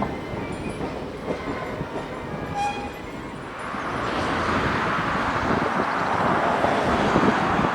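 A heritage-railway train running, with a broad rushing noise that swells about halfway through and holds.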